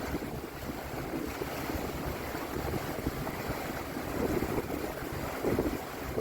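Wind buffeting the microphone aboard a moving tour boat, over a steady low rumble of boat and water noise, with louder gusts about four and five and a half seconds in.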